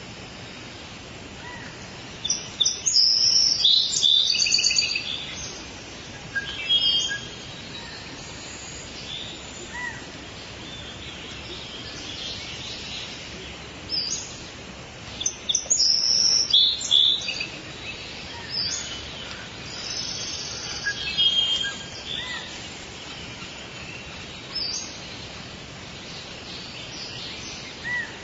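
Several wild birds calling and singing over a steady forest background hiss, in bursts of high chirps and trills, the busiest about three seconds in and again about halfway through.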